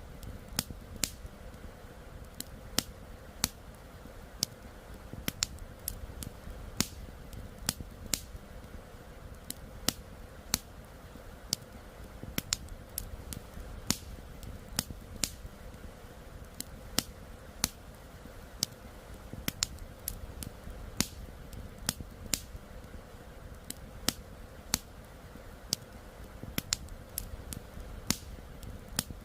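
Wood fire crackling: sharp, irregular snaps and pops several times a second, over a low steady rush of flowing river water.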